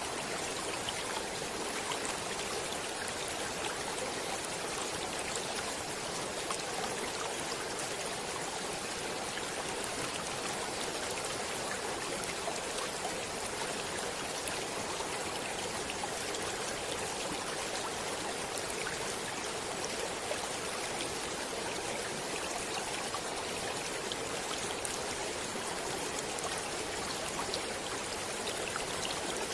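Flowing stream water, a steady even rush with many small splashes and drips.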